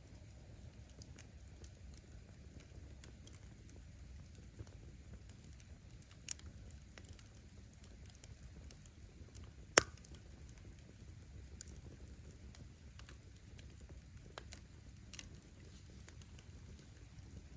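Wood bonfire burning: a low steady rumble of flames with scattered small crackles from the firewood, a sharper pop about six seconds in and one loud pop near the middle.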